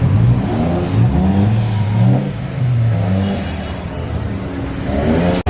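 A car engine being revved in several quick blips, the pitch rising and falling with each one, before it settles back. The sound cuts off sharply near the end.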